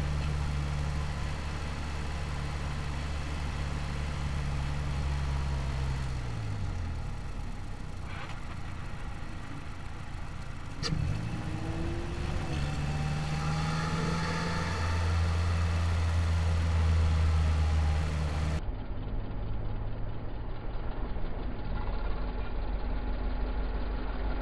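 Mazdaspeed3's turbocharged four-cylinder engine heard from inside the cabin, running steadily at light throttle, then dropping in revs about six seconds in as the car slows. A sharp click comes about eleven seconds in, after which the engine runs steadily at low speed.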